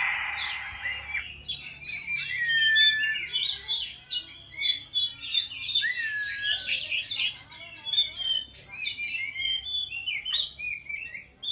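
Oriental magpie-robin (kacer) singing: a fast, varied run of chirps and whistles, with a couple of long downward-sliding whistles. A brief burst of noise comes at the very start.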